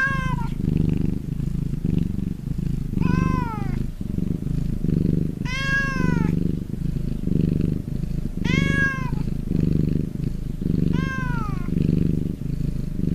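Domestic cat purring steadily in a rhythmic pulse, with a short meow that rises briefly and then falls in pitch about every two and a half to three seconds, five in all.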